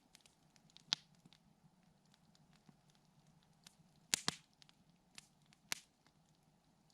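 Wood campfire crackling, with a few sharp pops: one about a second in, the loudest double pop past the middle, two more soon after, and faint ticks in between.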